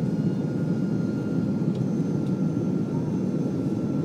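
Airbus A330-300 cabin noise in flight: a steady roar of the jet engines and rushing air, with faint steady whine tones above it.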